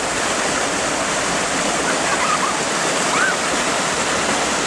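Waterfall water rushing and crashing steadily. A few faint, short, high chirps come through about two and three seconds in.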